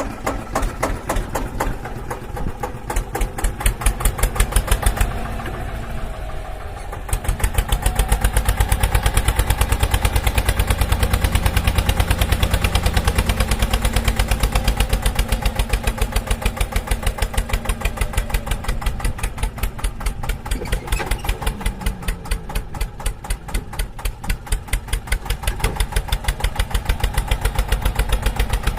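Small engine of a homemade mini tractor model running with a fast, even beat. It goes quieter briefly about five seconds in, then runs louder and steady.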